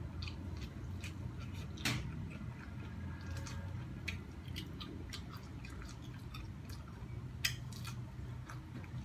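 Corn on the cob being bitten and chewed close to the microphone: a scatter of short crunching clicks, the sharpest about two seconds in and again near the end, over a low steady hum.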